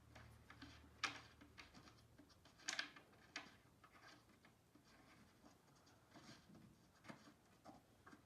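Faint clicks, knocks and scraping of flat-pack engineered-wood furniture parts being handled and worked into place, with a sharper click about a second in and a louder scrape a little before three seconds.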